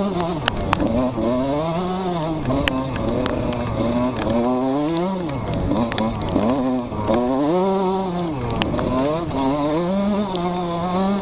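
Motocross motorcycle engines revving up and falling back again and again, the pitch rising and dropping every second or two, at times more than one engine at once.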